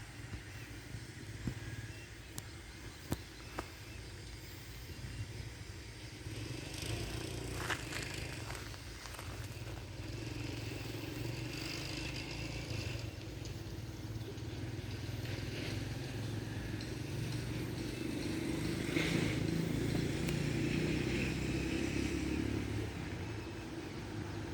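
Diesel train engine running with a steady low rumble, louder from about 18 seconds in, with scattered light clicks and crackles.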